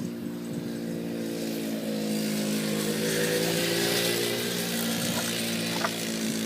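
A 90cc quad bike engine running steadily at part throttle. It grows louder toward the middle and eases off a little near the end.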